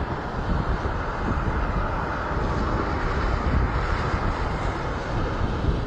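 Steady jet engine noise from a Boeing 787 airliner, an even, low-heavy rumble with no distinct events.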